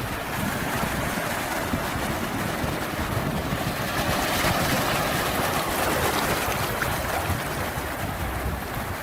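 Sea waves washing on the shore: a steady rush of surf that swells and falls back about halfway through, with a low rumble underneath.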